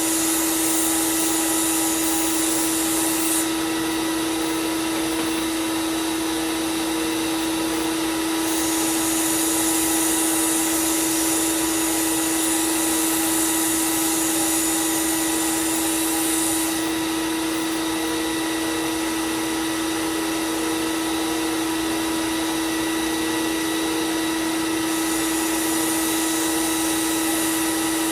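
Belt sander and dust extraction running with a steady motor whine, while a knife blade is ground on the belt in long passes: a hissing grind comes in for several seconds at a time, three times, as the blade is thinned and sharpened.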